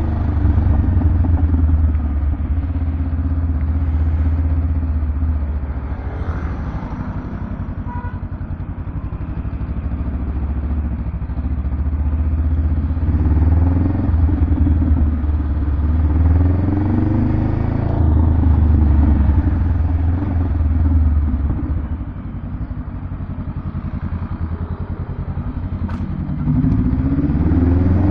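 Honda Rebel 500's 471 cc parallel-twin engine running through a Vance & Hines aftermarket exhaust, a deep low exhaust note whose pitch and loudness rise and fall several times as the throttle is opened and eased off, swelling again near the end.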